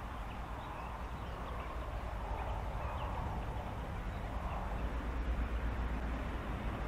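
Animal or bird calls from a reed bed: a diffuse chorus centred in the mid range that swells a little about two to three seconds in and again near four and a half seconds, with a few faint short chirps above it, over a steady low rumble.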